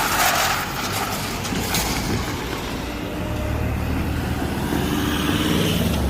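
Southeastern Class 375 electric train running over the level crossing: a steady rumble and rush with a few sharp wheel knocks at the start, and a low hum building in the second half.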